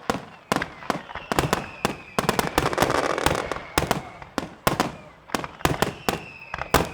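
Fireworks finale barrage: a rapid, irregular string of loud shell bursts, several bangs a second, with crackle between them and high whistles falling slightly in pitch.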